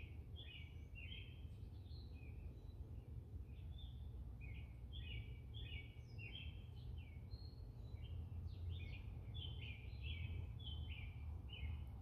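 Wild songbirds singing in short, repeated phrases of high, clear notes, with a low steady rumble underneath.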